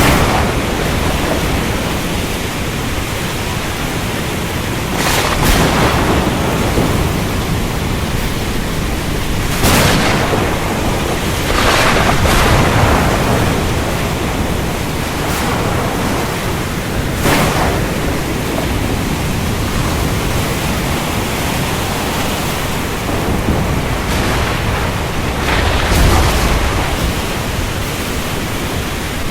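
Heavy rain falling steadily, with thunder: several sharp cracks through it and low rumbles near the start and again about 26 seconds in.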